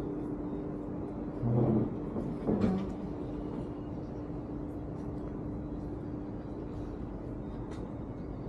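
Steady mechanical hum with one constant low tone over a rumble, with two short louder sounds about one and a half and two and a half seconds in.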